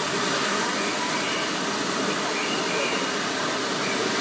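Hand-held bamboo tube fireworks (tezutsu hanabi) spraying fountains of sparks: a steady rushing hiss that holds at an even level.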